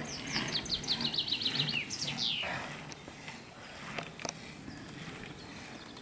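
A songbird singing: a quick run of short, high notes, each falling in pitch, about ten a second, then one longer note sweeping steeply down. Faint outdoor background follows.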